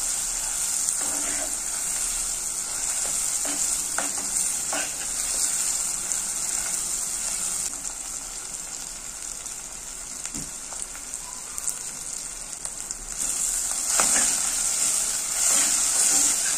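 A blended pepper, onion and tomato paste frying in hot palm oil, sizzling steadily, with a metal spoon stirring and now and then clicking and scraping against the ceramic-coated pot. The sizzle is quieter for a few seconds in the middle and comes back louder near the end.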